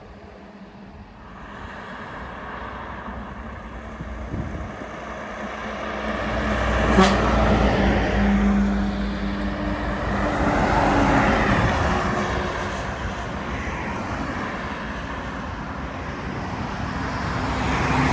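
Heavy trucks driving past on a highway. Engine drone and tyre noise swell as a truck approaches and goes by, with a sharp click about seven seconds in, and another vehicle closes in near the end.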